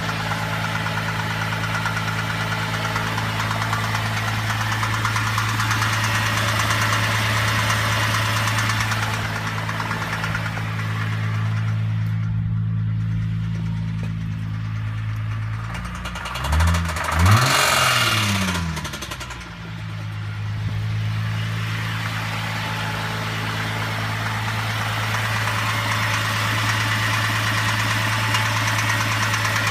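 Holden VZ Commodore engine idling with a knock, revved twice in quick succession about two thirds of the way through, then settling back to idle. The owner suspects the knock comes from the timing chain or the bottom end.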